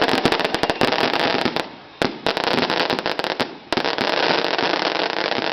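A string of firecrackers going off in a fast run of popping bangs, many a second, that twice thins out for a moment before picking up again.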